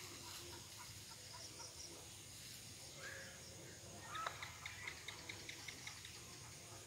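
Faint outdoor ambience with scattered short bird chirps. About four seconds in, a quicker series of chirps starts and runs on.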